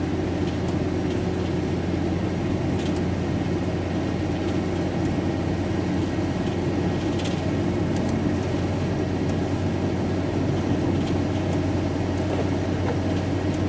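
Steady drone of a van's engine and tyres on a wet motorway, heard from inside the cab while driving, with a few faint, scattered ticks.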